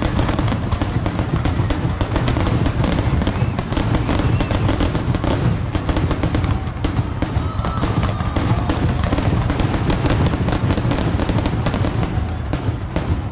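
Aerial fireworks display at full volley: a rapid, unbroken barrage of bangs and crackles over deep booms, thinning slightly near the end.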